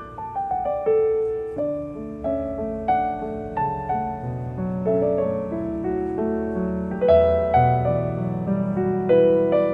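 Background piano music: a gentle melody of struck notes over held bass notes.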